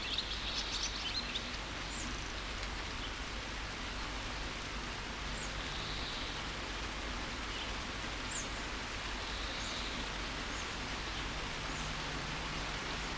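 Steady rain falling, with birds chirping: a quick flurry of chirps in the first second or so, then single short chirps every few seconds.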